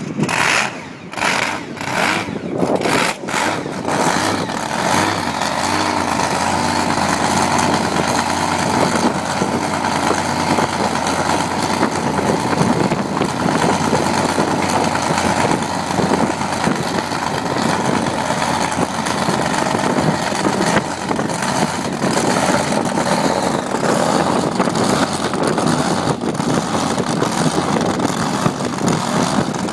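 Off-road monster truck's engine running, its pitch rising and falling as it revs.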